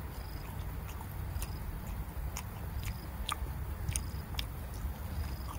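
A person chewing a mouthful of food close to the microphone, with wet smacking clicks of the lips and mouth every half-second or so.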